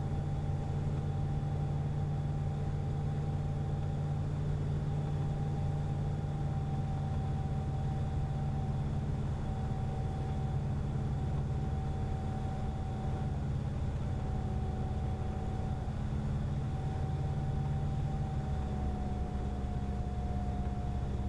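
Cockpit drone of a Cessna 177RG Cardinal on final approach, its 200 hp Lycoming IO-360 and propeller running steadily at reduced power, heard inside the cabin. A thin tone within the drone sags slightly in pitch over the span.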